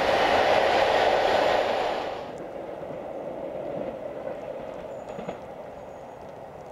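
Train rushing past at speed, a dense steady roar of wheels on rail from the coaches and the rear diesel locomotive. About two seconds in it cuts abruptly to a much fainter, distant train rumble.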